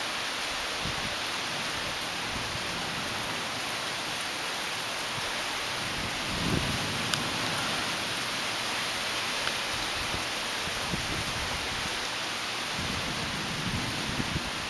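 Steady hiss of heavy rain falling during a thunderstorm, with brief low rumbles about six seconds in and again near the end, and a single sharp click just after the first rumble.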